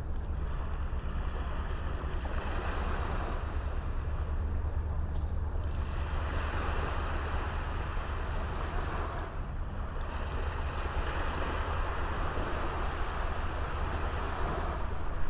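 Small waves washing onto a beach, the surf swelling and easing every few seconds, over a steady low rumble of wind on the microphone.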